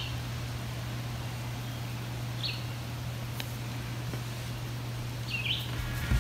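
A bird chirps briefly three times, a couple of seconds or more apart, over a steady low hum.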